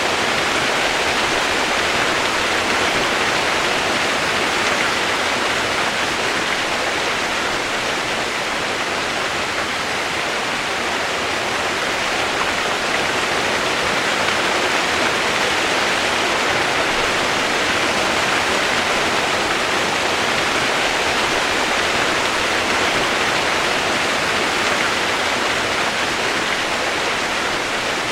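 Steady rain sound used as white noise: an even, unbroken hiss with no separate drops standing out and no change in level.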